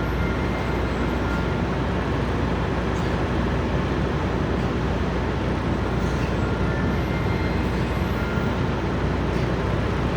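Steady low rumble of idling diesel semi trucks and passing vehicles, an even engine drone with no break or change.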